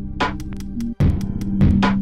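Electronic beat playing back from the Reason 12 music-production software: drum-machine hits over a sustained bass note and synth chords, cutting out for an instant about a second in.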